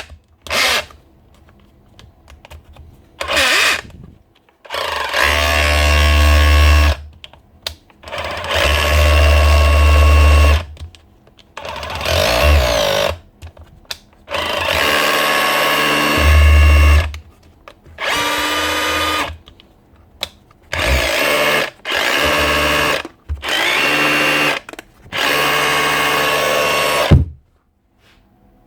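DeWalt DCH273 18 V SDS hammer drill run in about ten short bursts of one to three seconds, trigger pulled and released each time. This is a test run after the repair for loss of hammer action.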